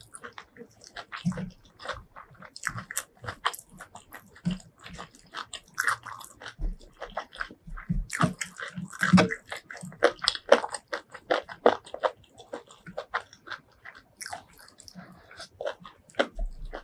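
Close-miked chewing and biting of food: a dense, irregular run of wet mouth clicks, smacks and crunches.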